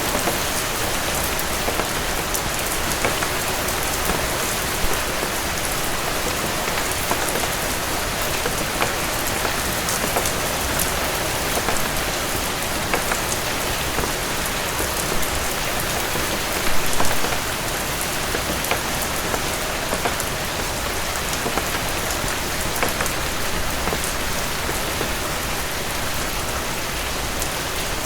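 Steady heavy rain, a dense even hiss, with scattered sharp ticks throughout and a brief louder cluster of them about two-thirds of the way through.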